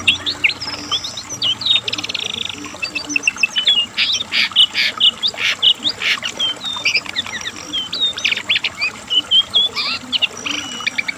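Lesser shortwing (brown cingcoang) singing a fast, continuous song of high, varied notes: quick up- and down-sweeping whistles and chirps mixed with buzzy trills.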